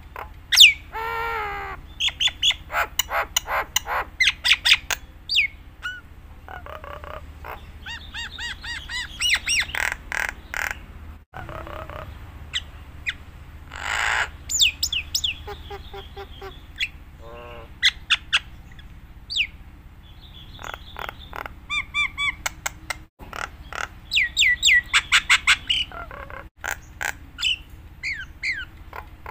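A jalak Nias myna singing steadily through a varied, full-repertoire song of sharp whistles, harsh squawks and fast chattering runs, over a steady low hum. The sound cuts out for an instant three times.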